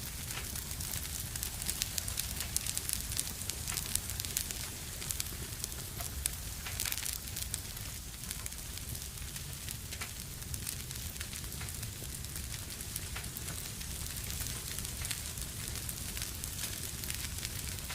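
Fire burning in a fireplace, crackling with frequent small pops over a steady hiss and a low rumble.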